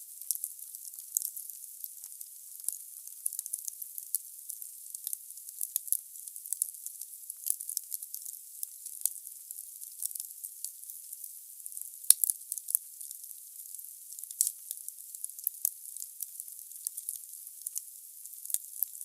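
Wood fire burning in a fireplace: dense, irregular crackling and hissing of the logs, mostly high-pitched, with one louder pop about twelve seconds in.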